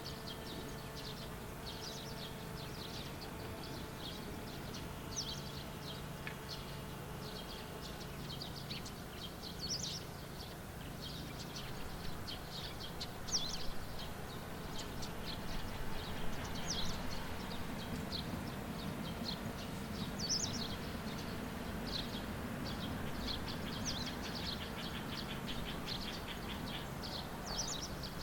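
Small birds chirping and twittering again and again in quick, high calls, over a low steady engine hum. About halfway through, a broader low rumble swells and then fades, as of a distant vehicle.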